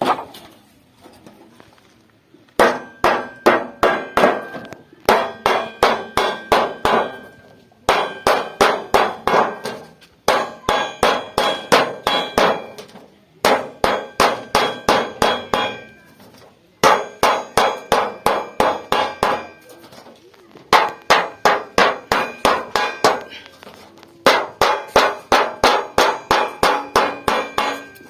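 Hammer beating the sheet steel of a homemade pot, about four ringing blows a second, in runs of roughly ten strikes separated by short pauses.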